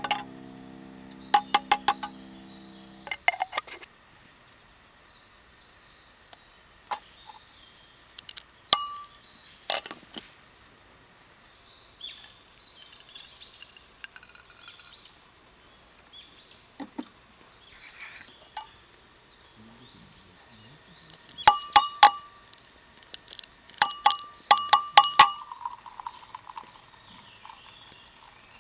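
Metal camp cookware clinking and tapping: sharp strikes, each with a brief metallic ring, in several short clusters. Birds chirp faintly in between, and background music fades out a few seconds in.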